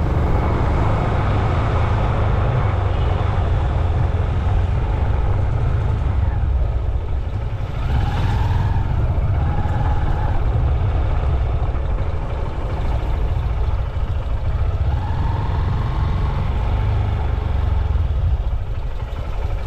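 Steady wind rumble on a moving action-camera microphone mixed with road-traffic noise, with a couple of short pitched sounds about halfway through.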